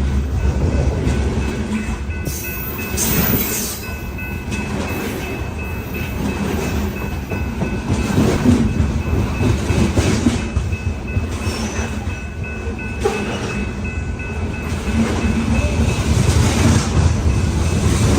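Loaded BNSF coal hopper cars rolling past, with a steady rumble and the clatter of wheels over the rail. A faint, steady high squeal sits over it until near the end.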